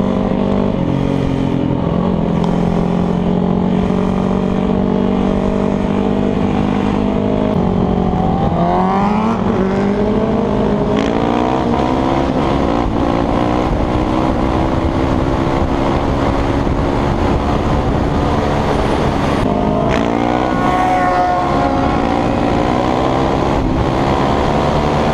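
Sport motorcycle engine running under way. Its pitch holds steady for several seconds, drops about a third of the way in, then climbs in a series of rises as it accelerates.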